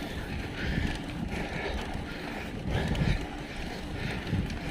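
Wind buffeting the microphone of a camera riding on a moving bicycle: an uneven low rumble that swells twice.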